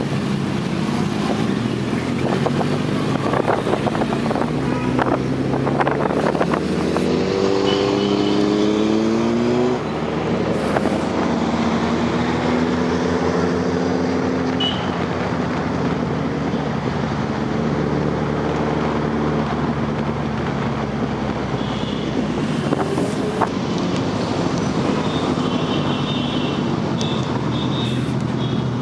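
Superbike engine running under way, revving up in quick rising steps about a third of the way in, over a steady rush of road and wind noise.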